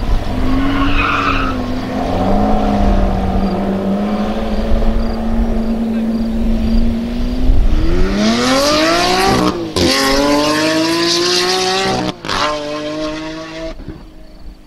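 Lamborghini Aventador's 6.5-litre V12 with a full Capristo exhaust holding steady revs, then accelerating hard with a rising pitch. Two quick upshifts cut the sound sharply, each followed by another climb, and the car fades away near the end.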